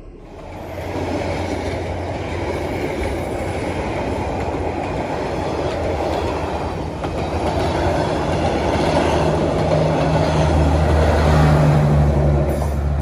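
Passenger coaches of a Vietnamese train rolling past close by: a steady rumble and clatter of wheels on the rails. The sound grows louder, and a low engine hum swells near the end as the last coach goes by.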